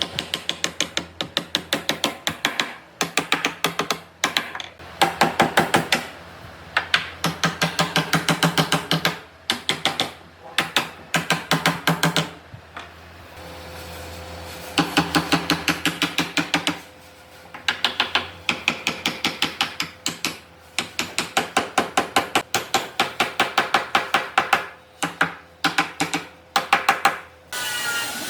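Rapid runs of sharp taps or clicks from hand work on wood, about seven a second, in bursts of one to three seconds with short pauses between them.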